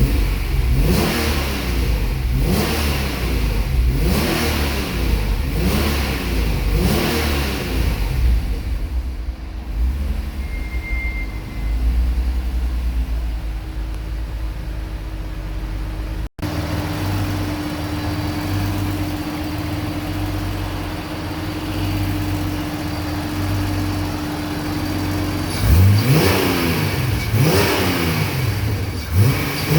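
Freshly built 3.6-litre stroker V6 in a Honda NSX revved in a string of quick throttle blips, then settling to a steady idle, and blipped again near the end. The engine is warm, with about 15–20 minutes of running on the new build.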